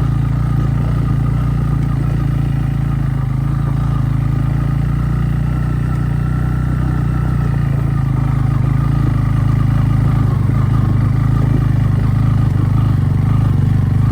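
Motorcycle engine running steadily under way, getting a little louder about two-thirds of the way through.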